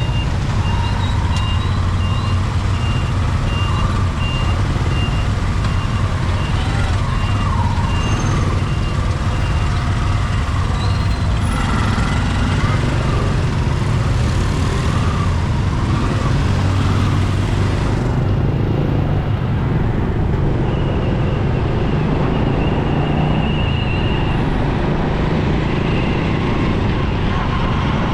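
Motorcycle riding through heavy traffic: a steady low rumble of engines and road noise. A short high electronic beep repeats about once a second through the first several seconds and comes back briefly later on.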